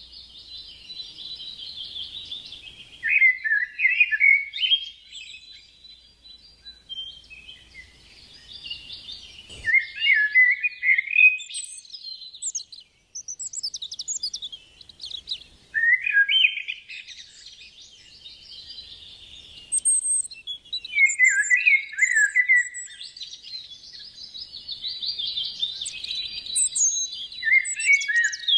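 Songbirds singing: a busy high chatter broken every six seconds or so by a louder, lower warbling phrase, with occasional higher chirps.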